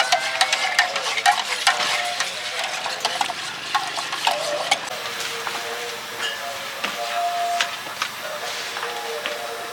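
Food frying in a hot wok, a steady sizzle, with a metal spatula clicking and scraping against the wok in quick strokes for the first half; after about five seconds the strokes thin out and the sizzle carries on.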